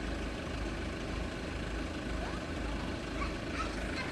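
Vehicle engines idling in a steady low rumble, with a few faint high chirps near the end.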